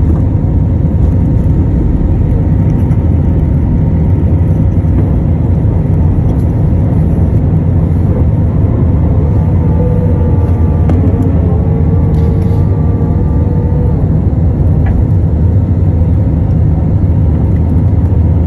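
Airbus A321-200 cabin noise during takeoff: a loud, steady rumble of the engines at high power. A faint whine, falling slightly in pitch, rides on top from about ten seconds in for some four seconds.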